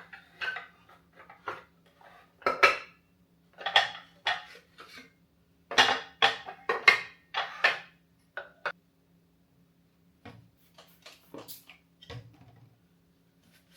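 Kitchen jars and their shelf stands being handled and set in place, clinking and knocking together in quick clusters, loudest in the first half, then a few lighter taps.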